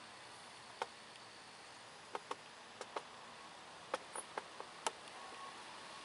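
About ten short, sharp clicks at irregular intervals over a faint steady hiss.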